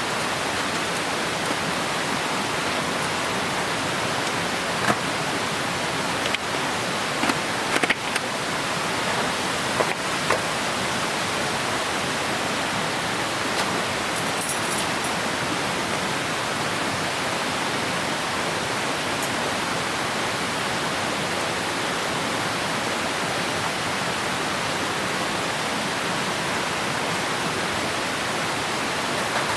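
Steady rushing of a clear stream, with a few short clicks and knocks between about five and ten seconds in.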